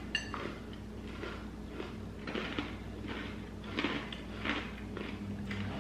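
Crunchy sourdough pretzel bites being chewed: a string of short, irregular crunches, roughly two a second.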